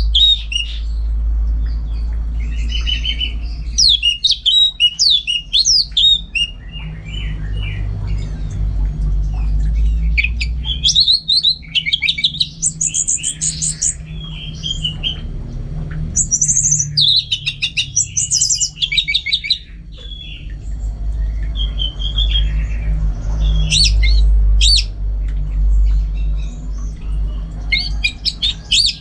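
Orange-headed thrush singing a fast, varied song of high whistles, chips and trills in bursts with short pauses, over a steady low hum.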